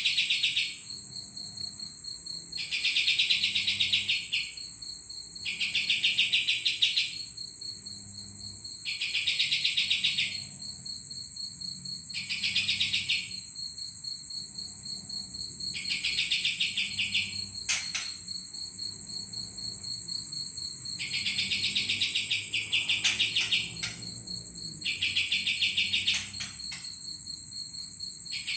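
A kapas tembak songbird giving a fast, rattling trill of about a second, repeated roughly every three seconds, over a steady high-pitched whine.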